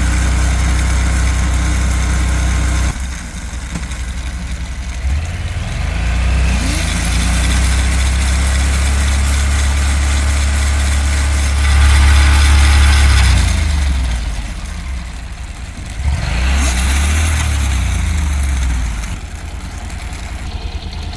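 Motorcycle engine running, its speed rising and falling several times, loudest about twelve seconds in, then dropping back.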